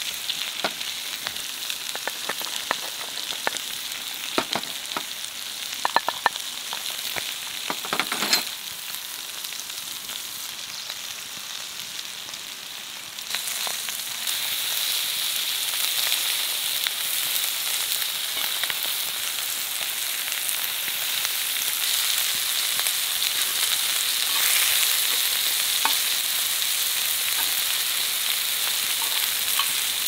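Beef intestines and vegetables sizzling on a cast-iron pot-lid griddle over a wood fire, with scattered clicks and taps in the first several seconds as food is laid on and moved with tongs. About halfway through, the sizzling grows louder and then stays steady.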